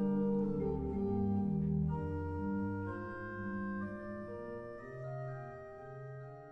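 Church pipe organ, freshly cleaned and repaired, playing slow held chords that change every second or so and fade away toward the end.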